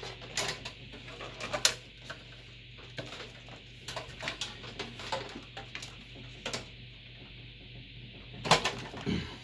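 Irregular clicks and knocks of plastic and metal parts being handled inside a desktop PC case during disassembly, with a louder clatter near the end.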